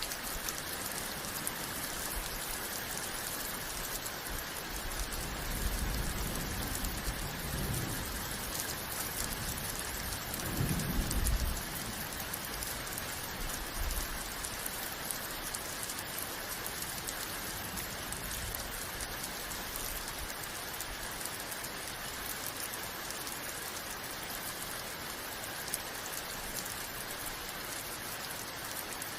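Steady rain with an even hiss, and low rolls of thunder: one about a fifth of the way in and a stronger one just before the middle, then a smaller rumble soon after.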